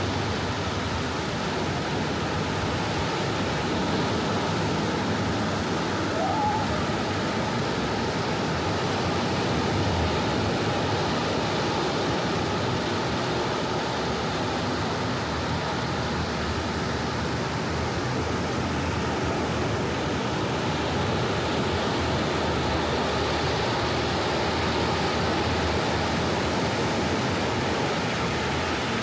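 Gentle ocean waves washing onto a beach: a steady surf hiss that swells and eases slowly. A faint brief chirp about six seconds in.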